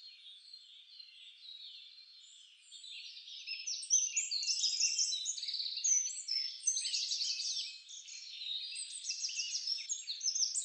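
Small birds chirping and twittering, many high-pitched calls overlapping. They are faint at first and grow busy after about three seconds, with a fast, even trill near the end.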